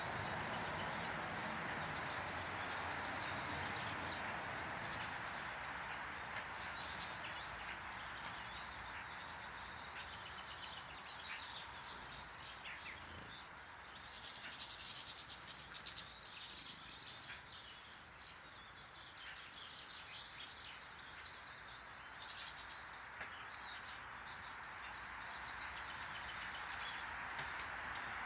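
Small garden birds at a bird table chirping and giving short, high, rapid trills in several separate bursts. Behind them is a steady hiss that dies down about a third of the way in and comes back near the end.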